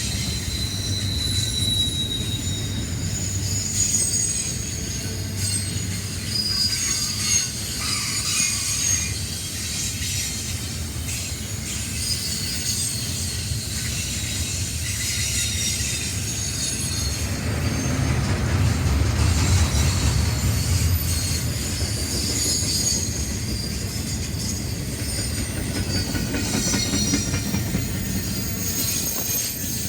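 Railroad cars rolling past with their steel wheels squealing against the rails: many thin, wavering high squeals over a steady low rumble that swells for a few seconds past the middle.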